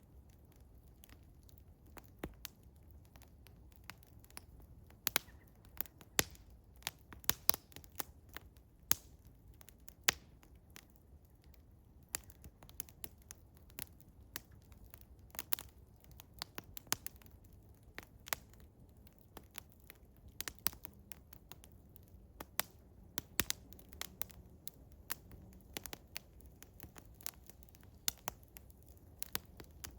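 Wood fire of eastern hemlock crackling, with irregular sharp pops and snaps, some much louder than others, over a faint low background.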